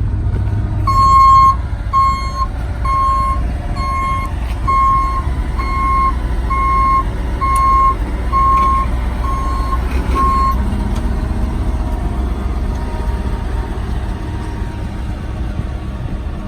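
Warning alarm on a GMC C7500 bucket truck beeping steadily, a little more than once a second, for about ten seconds, over the truck's diesel engine running; the beeping stops about ten seconds in.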